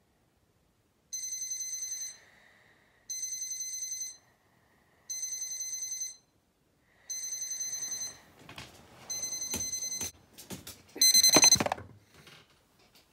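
Phone alarm ringing in a fast-trilling, high-pitched pattern, six rings about two seconds apart. The last ring is much louder before it cuts off. Bedding rustles under the later rings.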